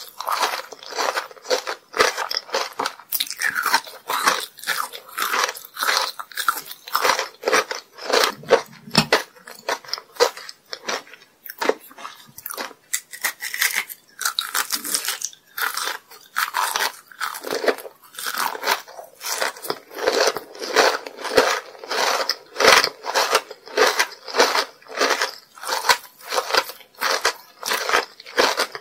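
Close-miked biting and chewing of a homemade kohakutou jelly candy: a quick run of crunches and sticky, chewy mouth clicks, several a second.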